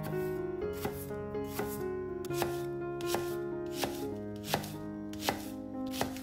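Knife chopping on a cutting board in steady, evenly spaced strokes, about one every three-quarters of a second, over background music with held notes.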